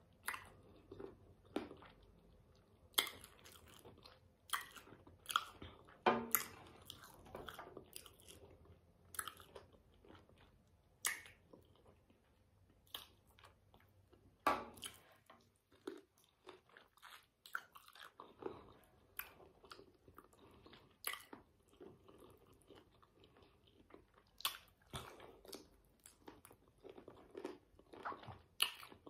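Close-up chewing and biting on spicy sauce-coated chicken feet: wet mouth smacks and crunches at irregular intervals, some sharp and loud, most soft.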